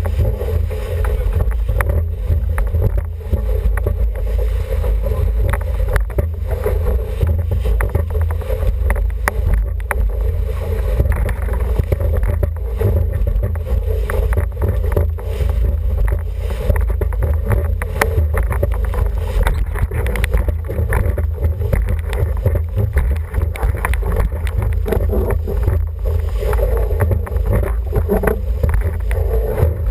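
Steady wind buffeting the microphone, with water rushing along the hull of an International 14 sailing dinghy under way.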